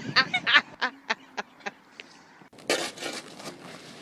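A person laughing: a run of short "ha" syllables, about four a second, fading out in the first couple of seconds. About three seconds in there is a brief burst of noisy scraping or rustling.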